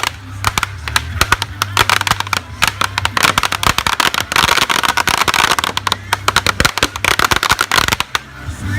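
A string of firecrackers going off in rapid, irregular pops for about eight seconds, stopping shortly before the end.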